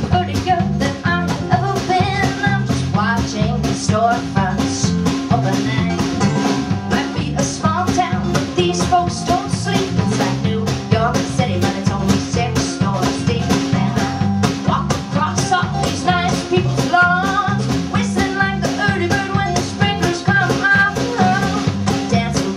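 Live band playing an instrumental break: a guitar carries the melody over bass and a drum kit keeping a steady beat.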